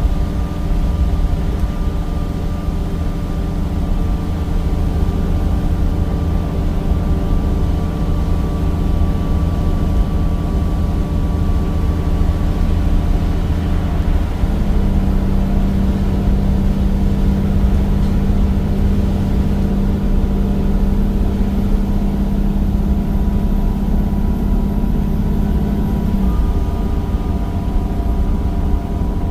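Cummins diesel engine and ZF automatic gearbox of a Temsa Avenue bus running under way, a steady drone. About halfway through its pitch steps up and holds, then drops back near the end.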